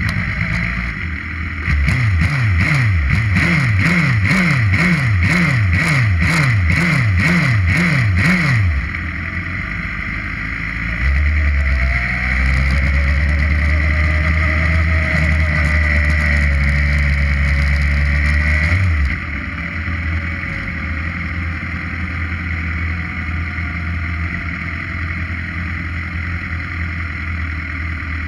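Suzuki GSX-R inline-four motorcycle engine heard onboard. It is revved in quick repeated blips, about two a second, for several seconds, then runs louder and steady at higher revs for about eight seconds, then settles to a quieter steady run near the end.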